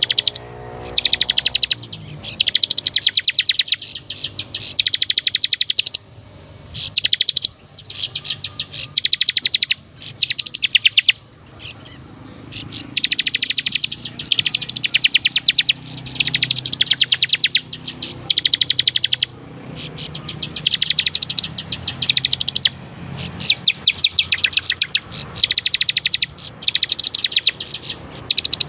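Ciblek (bar-winged prinia) singing: rapid, high trilled phrases of about one to two seconds each, repeated again and again with short pauses.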